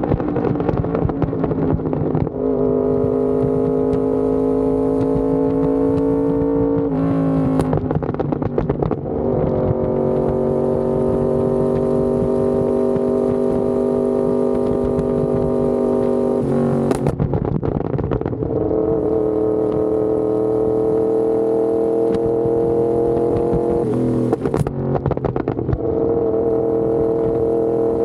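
Yamaha R1M's crossplane inline-four through an SC Project exhaust, riding under power: each gear holds a steady, slowly rising note for several seconds, broken four times by a quick change in pitch as the rider shifts.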